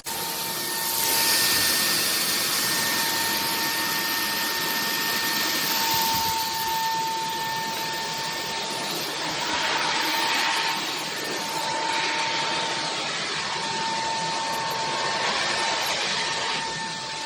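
Bulelink cordless stick vacuum running: a steady high motor whine over a rushing hiss of air that swells and eases several times.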